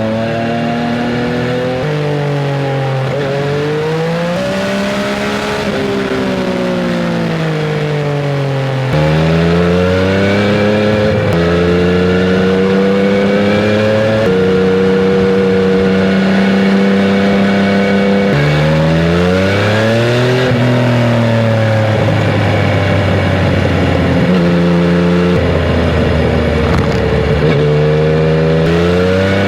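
2016 Yamaha MT-09 Tracer's 847 cc crossplane three-cylinder engine breathing through a Roadsitalia Special Carbon aftermarket exhaust, heard on board while riding. The engine pulls up through the revs again and again, with its pitch falling sharply at each gear change, and it gets louder about nine seconds in.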